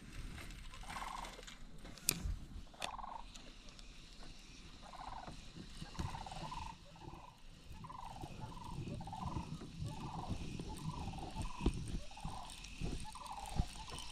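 Faint wild animal calls: short repeated calls, sparse at first, then coming about twice a second in the second half, with a few sharp clicks among them.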